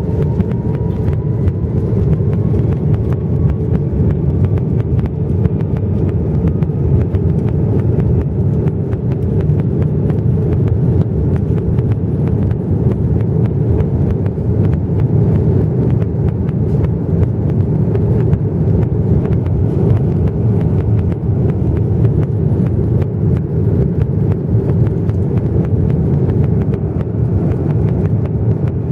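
Airbus A330-300 jet airliner cabin noise: a loud, steady, deep rumble of engines and airflow, with a faint whine rising in pitch during the first few seconds.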